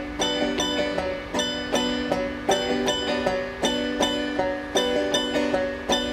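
Instrumental passage of banjo picking: a steady run of plucked notes, several a second, over a held lower tone.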